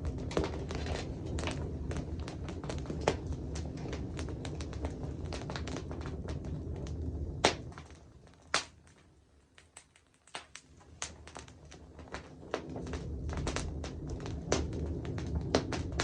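Wood campfire crackling, with irregular sharp pops and snaps over a low rumble. The rumble drops away for a few seconds in the middle while scattered pops continue, then comes back.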